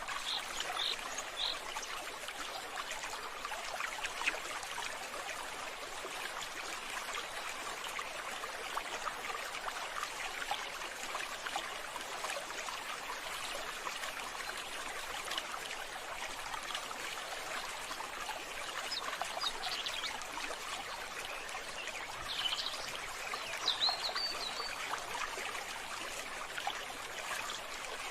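Water running and trickling steadily, with a few brief high chirps about a second in and again late in the stretch.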